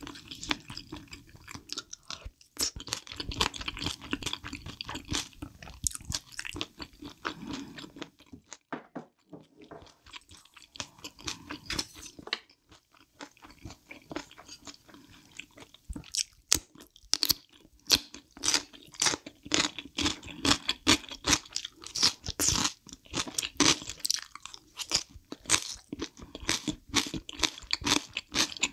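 Close-miked chewing of food, with wet mouth sounds and sharp crisp crunches that come thick and fast in the second half.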